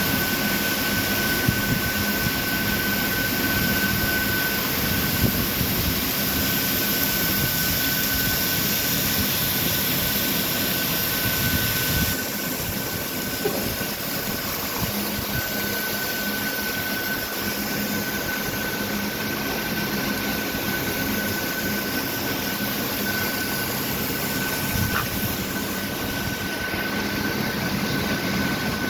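Heavy lathe running as it turns a metal pillar for a marble gang saw: a steady mechanical din with a thin high whine that comes and goes. About twelve seconds in the high hiss drops away and the sound gets a little quieter.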